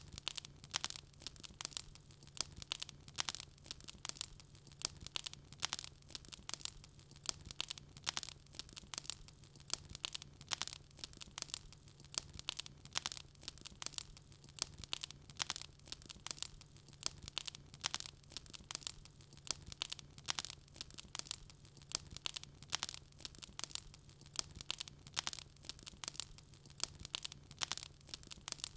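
Wood fire crackling steadily, with many irregular sharp pops and snaps each second from the burning logs, over a faint steady low hum.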